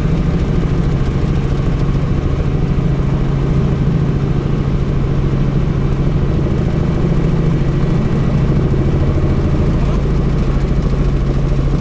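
Helicopter in flight heard from inside the cabin: a steady, loud drone of engine and rotor with wind noise.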